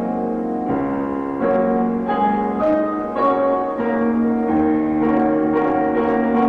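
Solo piano playing a slow, hymn-like piece in sustained chords with a melody on top, the notes changing about once a second.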